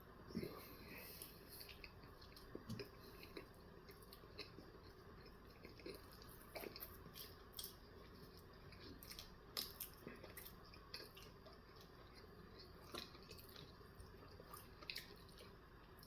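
A person chewing a mouthful of a steak, egg and cheese bagel sandwich: faint, scattered wet mouth clicks and smacks.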